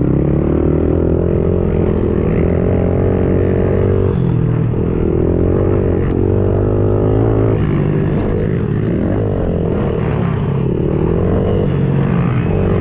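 110cc pit bike's single-cylinder four-stroke engine revving hard under riding load, its pitch dropping and climbing again a few times as the throttle is rolled off and opened back up or it shifts gear.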